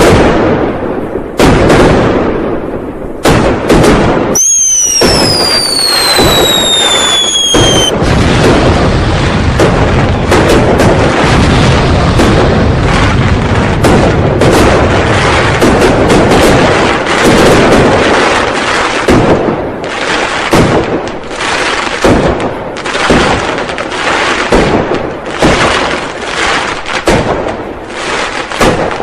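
A dense, continuous barrage of New Year firecrackers and fireworks, with bangs and crackle overlapping without a break. About four seconds in, a whistling firework gives one falling whistle lasting about three and a half seconds over the bangs.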